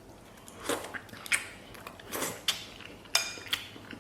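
Eating at the table: several sharp clinks and knocks of utensils against a bowl or dish, one a little after three seconds in with a brief ringing, among bites.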